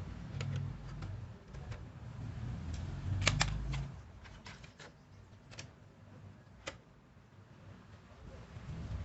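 A scattered run of light clicks and taps at irregular intervals, the loudest a close pair a little over three seconds in. A low rumble lies under the first four seconds, then drops away.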